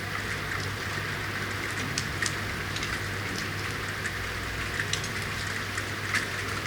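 Steady city rain hissing down, with scattered individual drops ticking sharply on hard surfaces, over a steady low hum.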